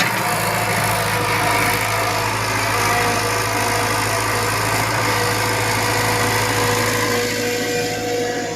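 Excavator's diesel engine running steadily, with a steady whine above the low engine hum.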